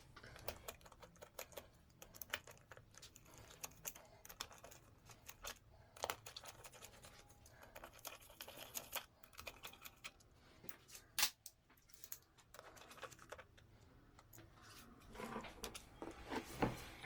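Faint, irregular small metal clicks and scrapes of hand work as screws are fitted to a two-stroke engine's ignition cover, with one sharper click about 11 seconds in.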